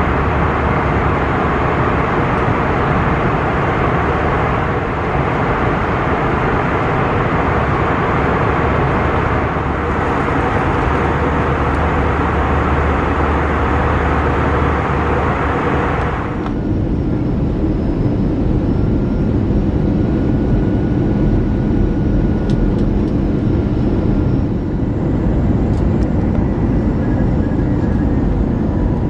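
Airbus A321 jet noise heard inside the cabin: a steady, loud rush of engine and airflow noise. About halfway through it changes abruptly to a duller rumble with a faint steady whine.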